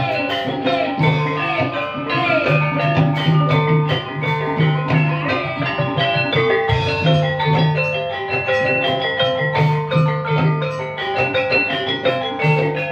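Live ebeg accompaniment: keyed percussion instruments play many quick, repeating melodic strokes over a steady drum pattern.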